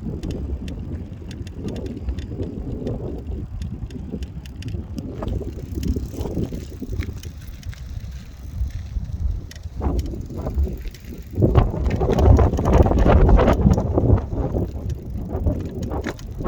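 Wind buffeting the microphone as an uneven low rumble, with scattered light clicks and crackles. It grows louder about two-thirds of the way through.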